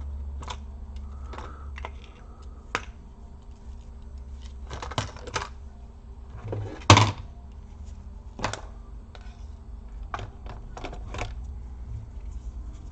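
Plastic laptop parts being handled and fitted during reassembly: scattered clicks and knocks, with a sharper knock about seven seconds in.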